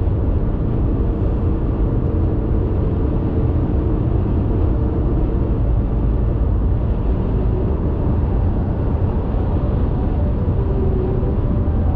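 Car driving at motorway speed: a steady, low rumble of tyre and engine noise.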